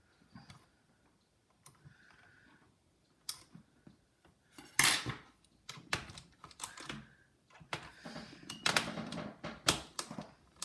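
Small metal tools, tweezers among them, clicking and scraping against a laptop's chassis while picking at a stuck screw. Irregular sharp clicks, with louder scraping bursts about five seconds in and again near the end.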